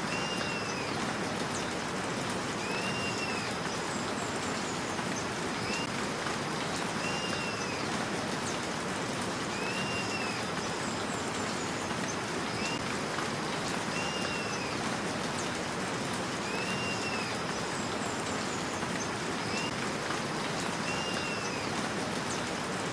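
Steady rain hiss, with a short rising-and-falling call repeating about every two seconds and a few higher twittering notes now and then, typical of a bird calling in the rain.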